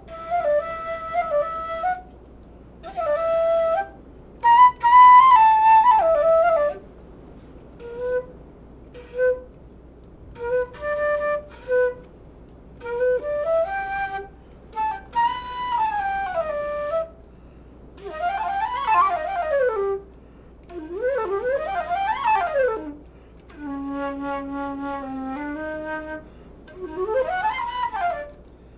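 Curved-neck flute playing solo in short phrases separated by pauses: held notes at first, then quick sweeping runs up and down about two-thirds of the way through, over a steady low background hiss.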